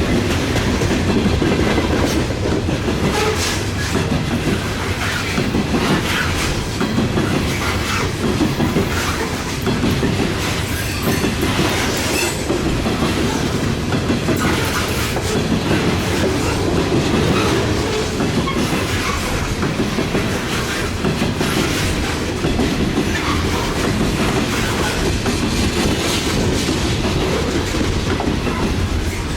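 Railroad cars rolling steadily past, their wheels clicking over rail joints.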